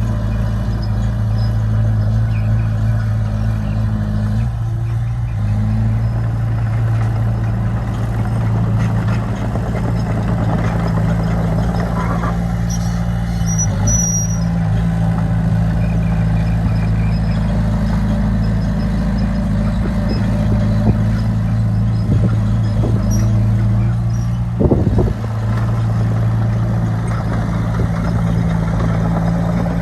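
Heavy diesel engine of earthmoving machinery running at a steady speed. The engine note drops out briefly about four seconds in, and there is a short knock near the end.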